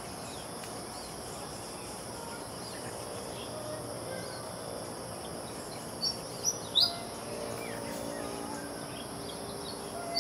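Steady high-pitched drone of insects, with three short, sharp pied fantail notes in quick succession about six seconds in.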